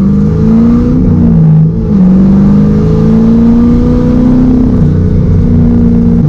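LS V8 engine of a Nissan S13 drift car revving hard during a drift, its revs rising and falling. The revs dip briefly about one and a half seconds in, then climb again.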